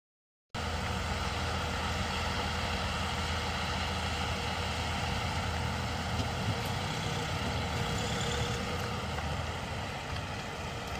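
Vehicle engine idling with a steady low hum under a broad noise haze, starting abruptly about half a second in.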